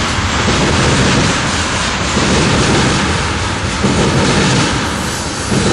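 Freight train of tank cars rolling past at close range: a steady loud rumble and rattle of steel wheels on the rails.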